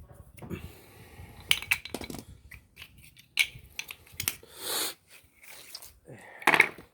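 Irregular clicks and clinks with a short scrape of hand work at a car wheel, as small parts and tools such as the plastic lug-nut caps are handled.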